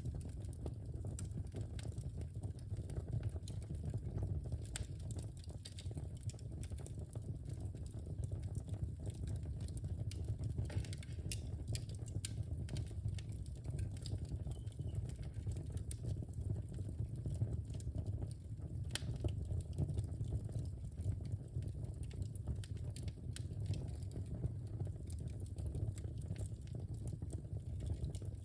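Wood fire burning in a fireplace: a steady low rumble of flames with frequent small sharp crackles and pops, one louder pop a little past the middle.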